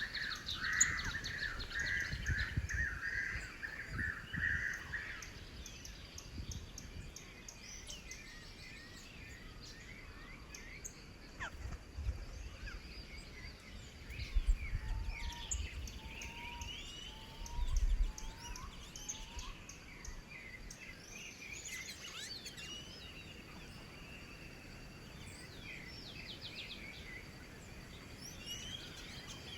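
Several small birds chirping and calling at a feeding spot, with a buzzy trill in the first few seconds and short rising chirps throughout. Low rumbles on the microphone come and go a few times.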